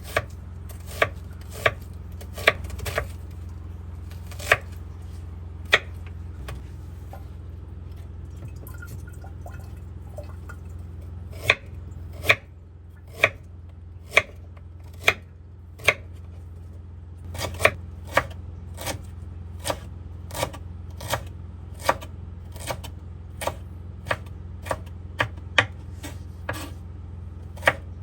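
Knife chopping on a cutting board: single sharp strokes, about one a second, stopping for a few seconds midway and then going on. A steady low hum runs underneath.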